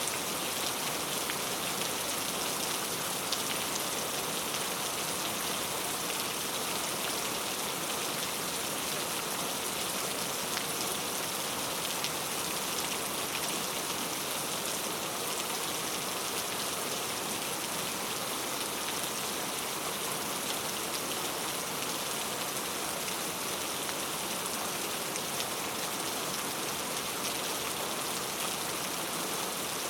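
Steady rainfall, an even hiss of rain with faint scattered drop ticks on a hard surface.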